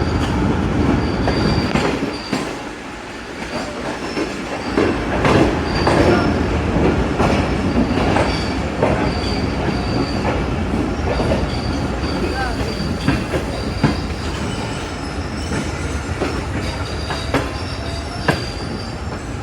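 Passenger train coaches rolling slowly over rail joints and pointwork, clicking and clattering, with a high squeal from the wheels coming and going as the train slows for a station stop.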